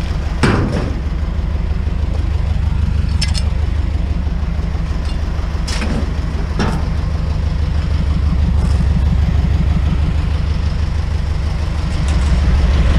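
Truck engine idling steadily, a low rumble, with a few sharp knocks about half a second, three seconds and six seconds in.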